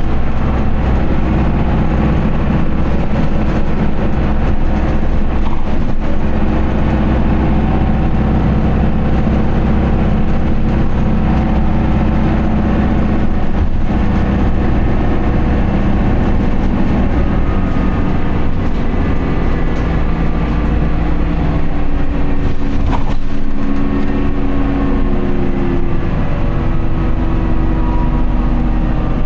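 Isuzu QDG-LV290N1 city bus's four-cylinder turbodiesel engine and drivetrain running steadily under way. The pitch holds for long stretches and shifts about two-thirds of the way through.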